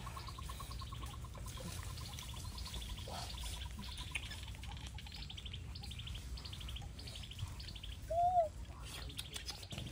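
Birds calling: repeated short high trills throughout, a run of evenly pulsed notes for the first three seconds, and one louder whistled note about eight seconds in.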